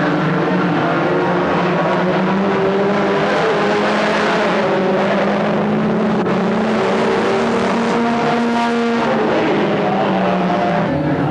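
Several stock car engines running together at racing speed, loud and continuous, their pitches shifting up and down as the cars circle the track.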